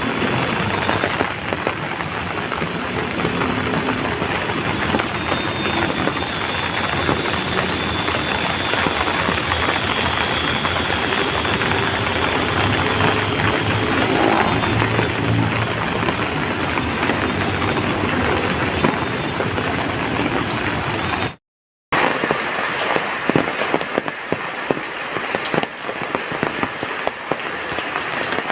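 Heavy rain pouring steadily. About 21 seconds in, the sound cuts out for a moment and then resumes, with more separate sharp drop impacts.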